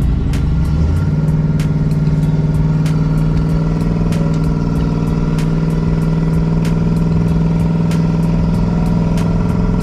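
Turbocharged truck's engine running steadily at an even speed, with a regular ticking of about three clicks a second over it.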